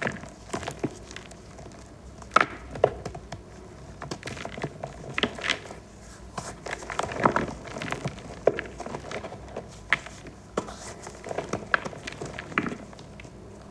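Green-dyed reformed gym chalk balls being crushed: irregular crunching and crumbling, with sharper cracks every second or so.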